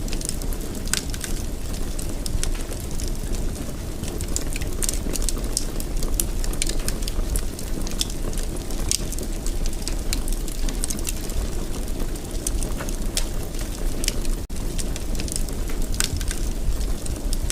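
Fireplace fire crackling: many sharp, irregular pops and snaps over a steady low rumble of burning. There is a very brief dropout in the sound about fourteen seconds in.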